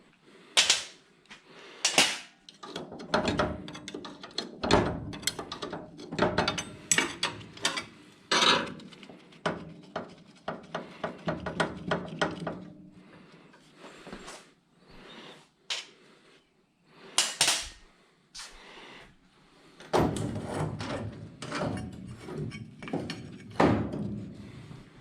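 Irregular knocks, clanks and rattles of tools and sheet-metal car parts being handled and struck, with a few louder bangs and short rattling stretches.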